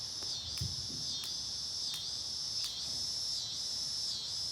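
Chorus of night insects trilling steadily at a high pitch, the sound rising and dipping in even phrases a little more than once a second.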